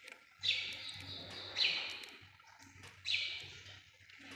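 Birds chirping, three short calls about a second apart, over a faint low hum.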